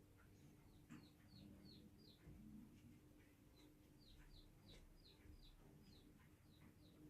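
Near silence with a bird chirping faintly in the background: strings of short, falling chirps, several a second, in two runs with a pause about two seconds in. A faint steady hum lies underneath.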